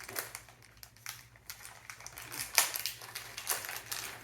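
Packaging being opened and handled: irregular crinkling and rustling, with a sharper crackle just past the middle.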